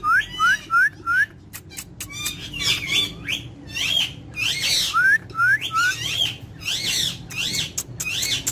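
Pet talking parrot calling: a quick run of four short rising chirps, then a string of harsher squawking calls, with three more rising chirps about five seconds in.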